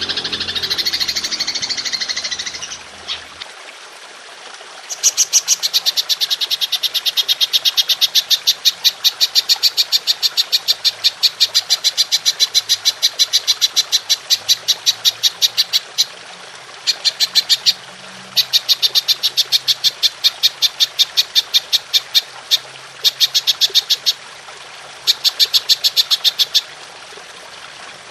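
Belalang emas (golden grasshopper) calling: long runs of rapid, evenly spaced high-pitched clicking pulses, several per second, broken by short pauses into repeated bursts. A different dense, high chattering call fills the first few seconds, over a steady faint hiss of trickling water.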